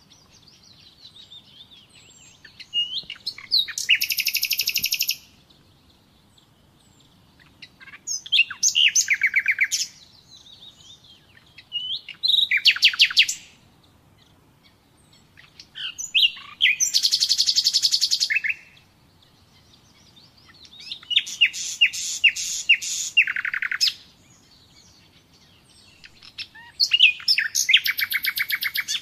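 Common nightingale singing: six loud phrases of rapid, repeated notes, one every four to five seconds, with faint softer notes in the pauses between them.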